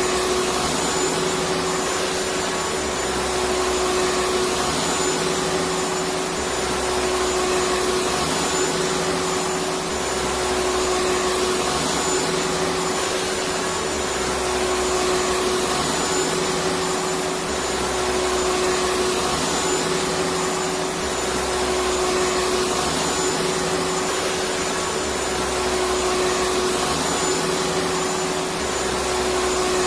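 Electric vacuum cleaner running steadily: an even rush of air with a constant motor whine, and a faint low throb that comes and goes every three to four seconds.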